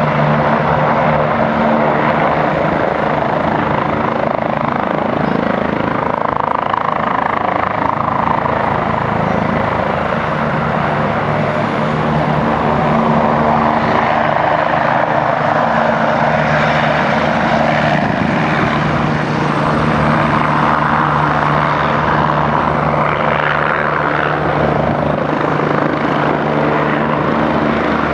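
Helicopter running steadily, a constant rotor and turbine sound with a few low, steady hum tones underneath.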